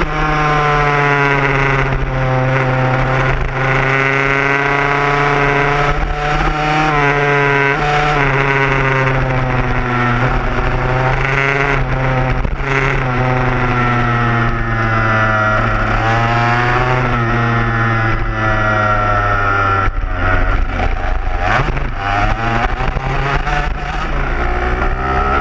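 Dirt bike engine revving up and down again and again, its pitch rising and falling in repeated sweeps over a steady low hum.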